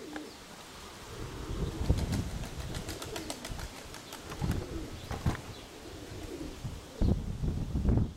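Domestic pigeons cooing, with gusts of strong wind rumbling on the microphone.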